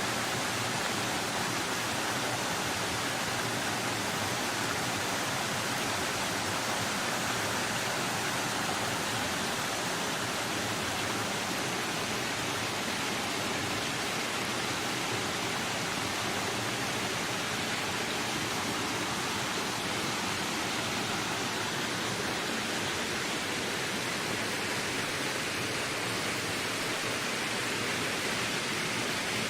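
Wind blowing as a steady, even rushing noise with no gusts or breaks.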